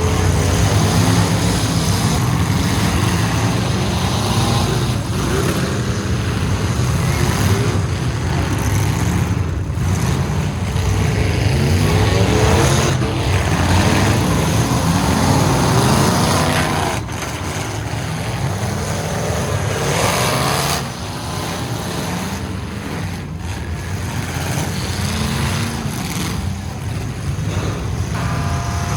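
Engines of several full-size derby trucks running and revving hard, the revs rising and falling over and over; the overall level drops slightly about 17 seconds in and again about 21 seconds in.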